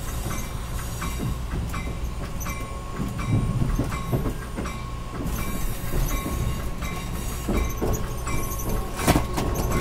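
Amtrak Keystone Service passenger train running, heard from inside a coach: a steady rumble of wheels on the rails with irregular clicks and knocks, the loudest about nine seconds in, over a thin steady whine.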